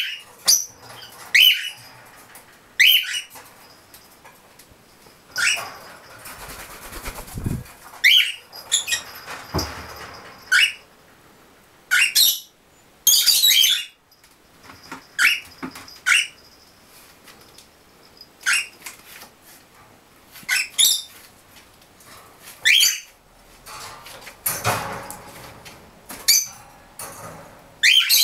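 Pet gray parrots calling: loud, short, sharp notes that each fall quickly in pitch, repeated about every one to two seconds, with a burst of rapid chirping near the middle. Between the calls come stretches of wing flapping and rustling.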